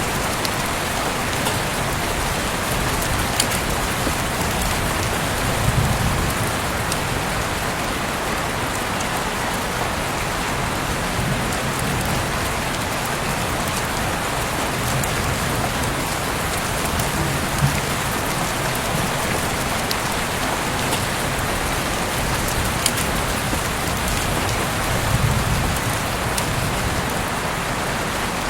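Heavy rain falling steadily, a dense even hiss with a few sharper drop ticks scattered through it.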